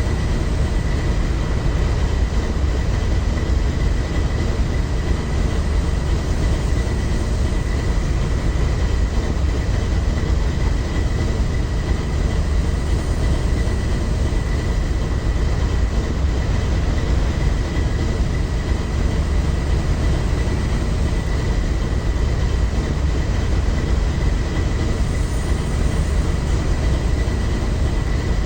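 A train passing close by: a steady, loud rumble of wheels and cars on the rails, with a thin high steady ring held over it.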